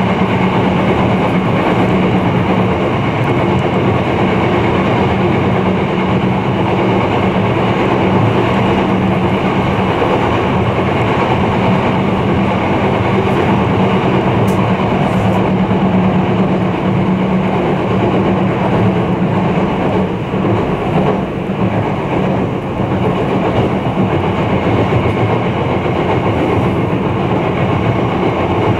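Izukyu 2100 series 'Resort 21' electric train running along the line: a loud, steady rumble of wheels and running gear under a constant low hum, easing slightly about two-thirds of the way through.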